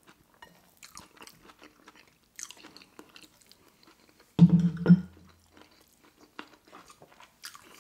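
Close-miked chewing of a mouthful of pad thai noodles: soft wet smacks and mouth clicks, with a short hummed "mm" a little past halfway that is the loudest sound.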